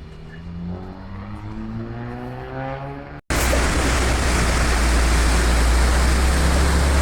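An engine whose pitch rises steadily. About three seconds in it cuts off abruptly to a louder steady rushing noise with a deep rumble.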